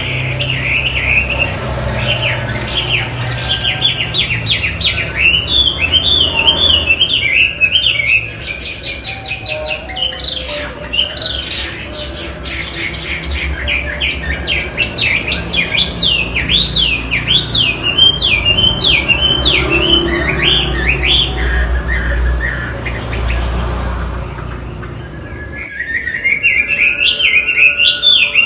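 Chinese hwamei (melodious laughingthrush) singing a long, fast run of loud, rising and falling whistled notes, breaking off for a few seconds near the end before starting again. A low hum runs underneath.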